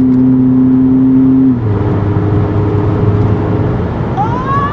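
Ford Focus engine running steadily while driving, its pitch dropping to a lower steady note about a second and a half in.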